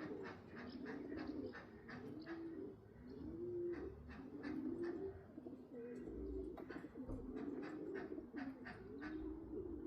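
Homing pigeons cooing at the loft: several birds' low, rolling coos overlap one after another, with frequent short clicks and taps among them.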